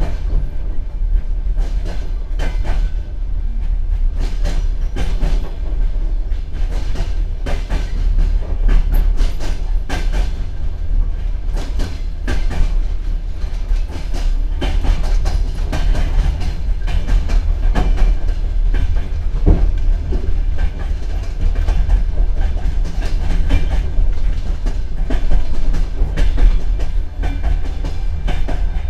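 Moving passenger train heard from inside a platzkart sleeper carriage: a heavy steady rumble with the irregular clack of the wheels over rail joints.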